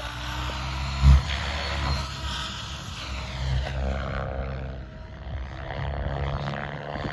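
PSG-Dynamics Seven electric RC helicopter flying, its main rotor blades making a steady low hum and whoosh. A short loud thump comes about a second in.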